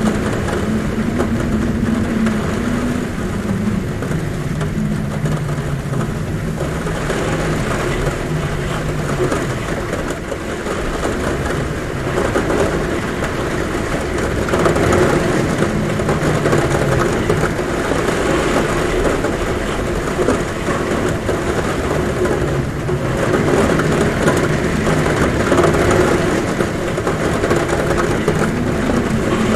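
Heavy rain falling steadily on a roof, with the low, wavering hum of wind at a window swelling and fading every few seconds.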